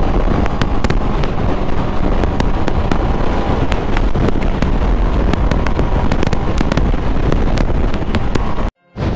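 Honda CB650R's inline-four engine running hard under throttle with heavy wind rush, dotted with sharp crackling clicks. It cuts off suddenly near the end.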